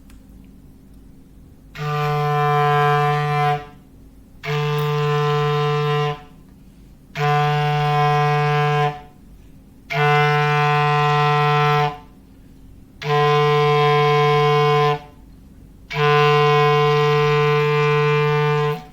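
Foghorn sound effect: six blasts of one low, steady horn tone, each about two seconds long with about a second's pause between them.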